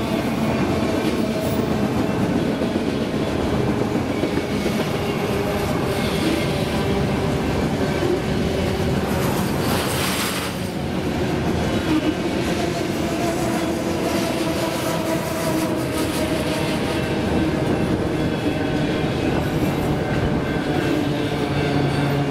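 Empty enclosed autorack freight cars rolling past at steady speed: continuous rumble and rattle of steel wheels on the rails.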